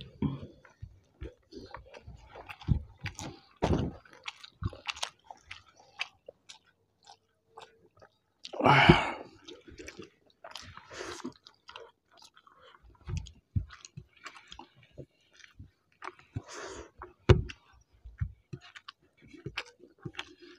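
Close-miked eating sounds of two people eating rice and steamed hilsa by hand: chewing, lip smacks and wet squishes in short irregular clicks, with a brief louder vocal sound about nine seconds in.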